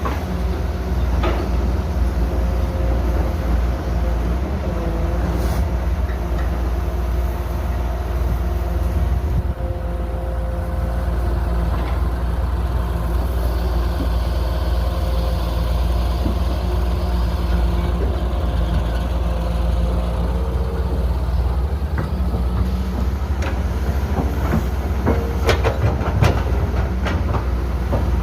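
Diesel engine of heavy construction machinery running steadily with a deep rumble, with a few sharp metallic clanks near the end.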